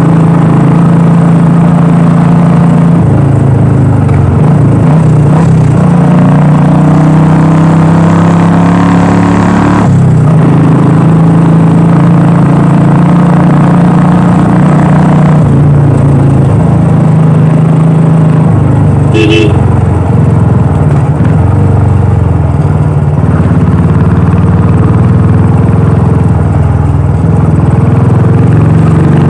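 Royal Enfield Classic 350's single-cylinder engine and exhaust running while riding, its pitch dropping and rising a few times with throttle and gear changes. A short horn toot sounds about two-thirds of the way through.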